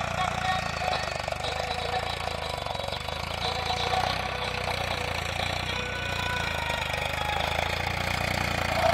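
Tractor diesel engine running steadily, with a fast, even knock.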